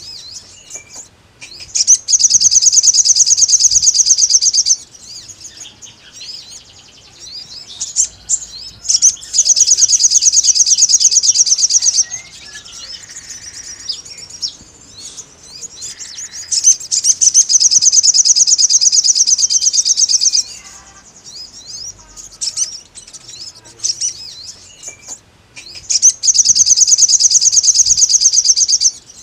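Sogon bird singing in full voice: four loud, high, rapid trills of about three seconds each, with softer chirps between them. It is the eager, wild-style song that bird keepers use to call out to a rival.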